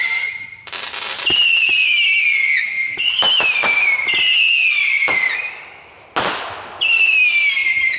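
Whistling fireworks going off one after another: a run of shrill whistles, each sliding slowly down in pitch, with a few sharp cracks about three seconds in and a bang about six seconds in.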